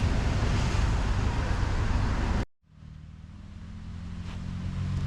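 Car driving, with a steady engine hum and road noise. It cuts off abruptly about halfway through, and a quieter engine hum then fades back up.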